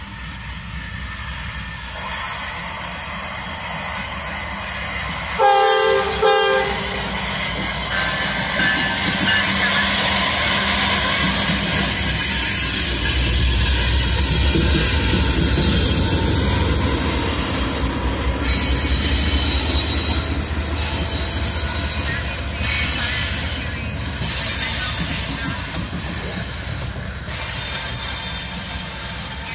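Norfolk Southern diesel locomotive horn sounds two short blasts about five seconds in, a horn salute to the trackside watcher. The locomotives then pass close by with a deep diesel rumble, followed by high wheel flange squeal on the rail.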